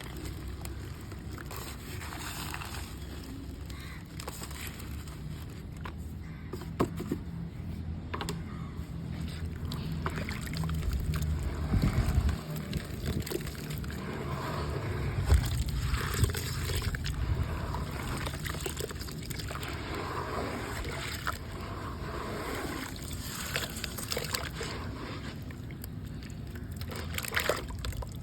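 Gritty red mud being crumbled in water: wet sloshing with scattered crunchy crackles.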